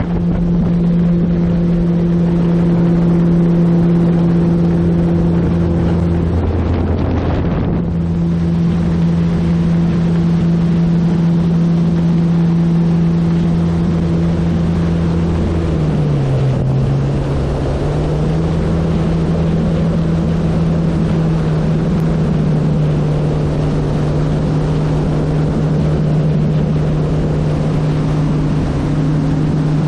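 Hacker A100-10 electric motor and propeller of a large RC airplane humming steadily in flight, with wind rushing over the microphone. The motor tone cuts out for about a second early on and dips in pitch about halfway through before settling again, as the throttle changes.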